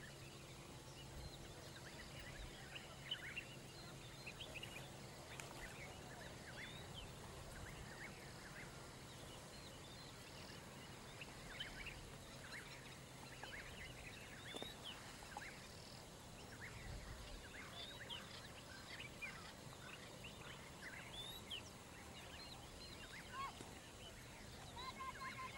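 Faint outdoor chorus of many birds: short chirps and quick falling whistles from several birds, scattered through the whole stretch. A steady low hum sits under it and stops near the end.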